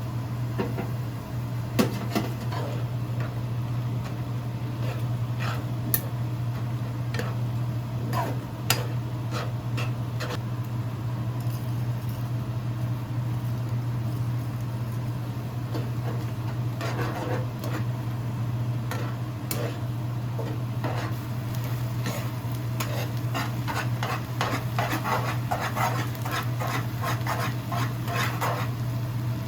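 A cooking utensil clicking and scraping against a pan or pot during stirring, with scattered single knocks and a quicker run of taps near the end, over a steady low hum.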